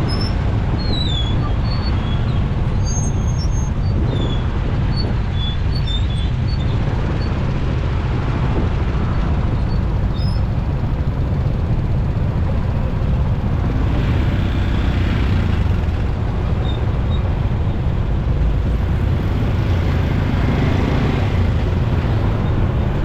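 Motorcycle riding in road traffic: wind on the rider's microphone and the engine make a steady deep rumble, with passing traffic around it. A few short high chirps sound in the first several seconds.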